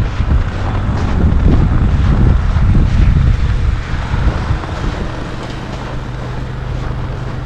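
Wind buffeting the microphone as a loud, steady low rumble, settling into a steadier low hum about five seconds in.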